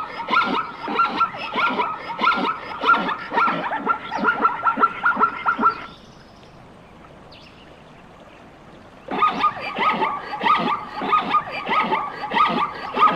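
An animal's quick, repeated yelping calls, several a second, that stop for about three seconds midway and then start again.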